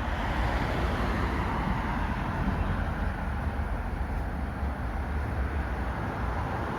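Steady street traffic noise, an even rumble of passing vehicles with no single sound standing out.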